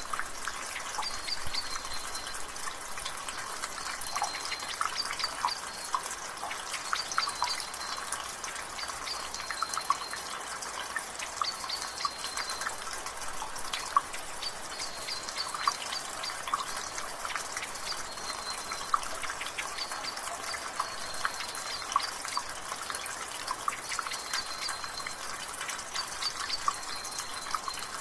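Rain water dripping from a gutter: many irregular drips and splashes over a steady drizzle hiss. A bird calls in the background, a short high note repeated every second or two.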